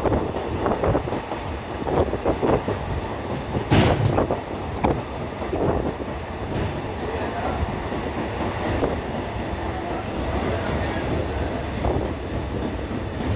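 Passenger train running along the track, with irregular clattering and one sharp knock about four seconds in.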